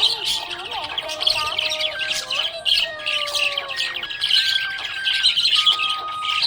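Budgerigars chirping and chattering continuously in rapid, busy twitters and squawks.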